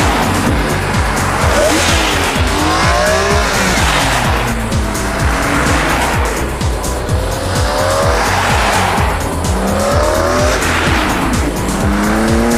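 Car engine revving up and down repeatedly with tyres squealing, over music with a steady beat.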